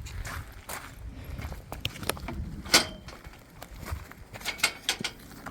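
Footsteps with irregular clicks and knocks, the sharpest a little under three seconds in and a quick cluster near the end.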